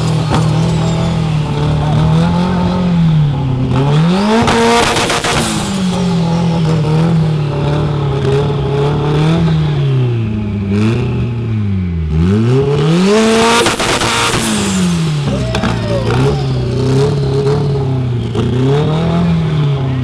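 A tuned car engine revved hard over and over, its pitch climbing and falling every couple of seconds, on a two-step launch limiter for exhaust flames. Twice there is a loud burst of rapid crackling pops from the exhaust, the first a few seconds in and the second past halfway.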